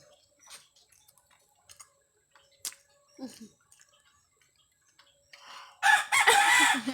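Faint clicks and handling noises, then a rooster crows loudly near the end.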